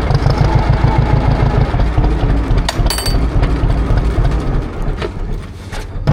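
John Deere tractor engine running steadily with an even low pulse, a few sharp clicks about halfway through and a brief dip in loudness near the end.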